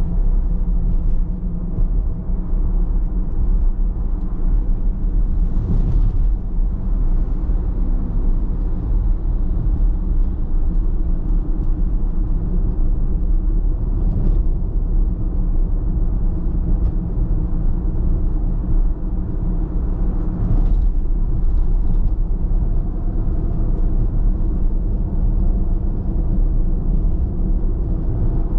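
Car driving at steady speed: a continuous low rumble of engine and tyres on the road, with brief hissing swells about six seconds in and again about twenty-one seconds in.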